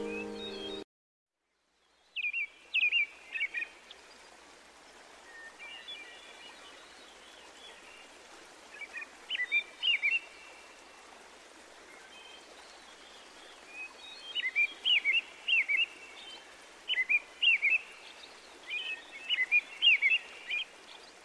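Music cuts off abruptly and there is a second of silence. Then a bird sings in short bursts of quick, high chirps every few seconds over a faint steady hiss of outdoor ambience.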